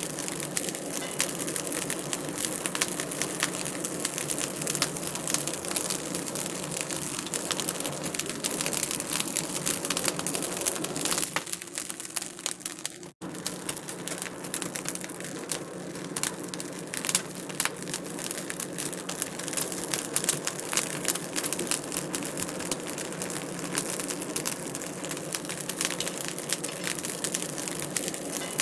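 Wood fire crackling and popping steadily in a fireplace, with a constant stream of small sharp snaps and a brief drop-out about thirteen seconds in.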